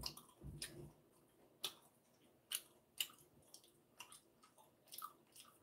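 Quiet chewing of honeycomb-cut pork belly, heard as a scatter of short wet mouth clicks, about half a dozen spread out, with a brief low murmur early on.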